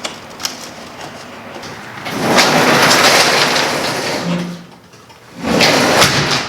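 A newly installed garage door rolling along its track with a metallic rattle: a longer run of about two seconds, then a shorter one of about a second.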